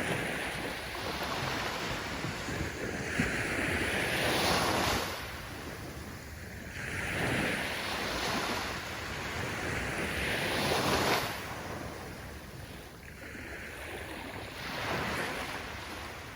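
Ocean waves breaking and washing up the shore, rising and falling in slow surges a few seconds apart, the loudest about four and eleven seconds in.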